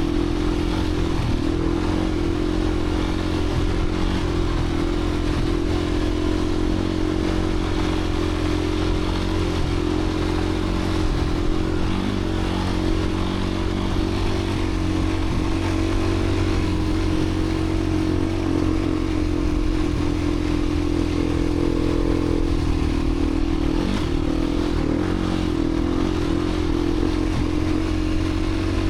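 Beta 350 RRS dirt bike's single-cylinder four-stroke engine running under way at a fairly steady pitch, dipping briefly and picking back up about three-quarters of the way through.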